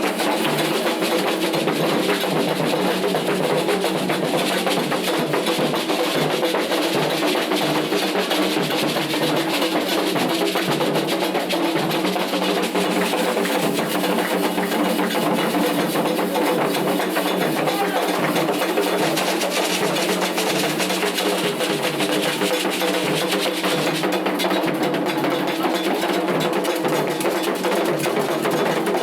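Candomblé ritual drumming: atabaque drums and percussion playing a dense rhythm without a break.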